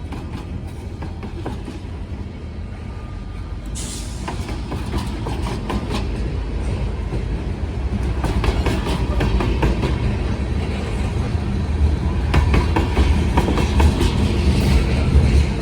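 Train cars rolling past at close range: a heavy low rumble with rapid clacks of the wheels over the rail joints, growing louder after the first few seconds.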